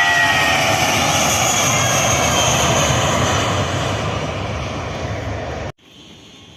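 Jet airliner passing close by, a loud engine rush with whining tones that glide downward as it goes past. It cuts off abruptly about five and a half seconds in, leaving a much quieter steady background.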